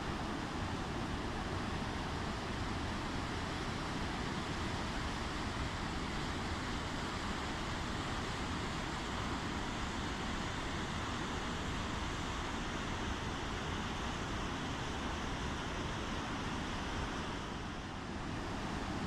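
Steady rushing of a waterfall, falling water making an even noise, with a brief dip in level near the end.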